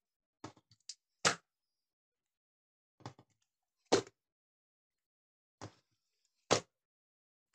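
Slime being pressed and pulled, making sharp popping clicks in pairs: a softer crackle, then a louder pop, about every two and a half seconds.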